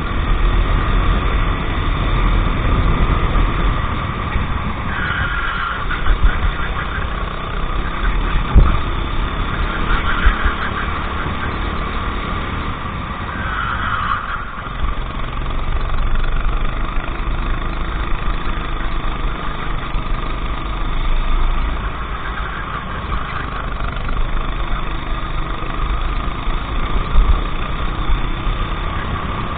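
Go-kart engine running continuously through a race lap, its pitch rising and falling with throttle.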